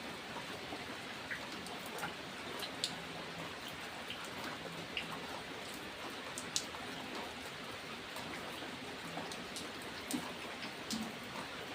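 Steady rain, with single close drops landing sharply here and there, the sharpest about halfway through.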